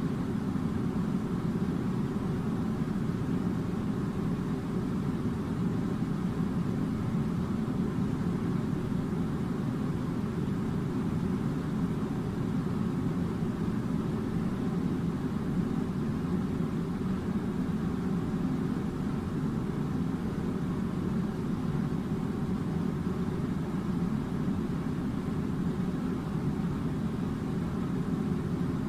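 A steady low rumble of running machinery, unchanging in level.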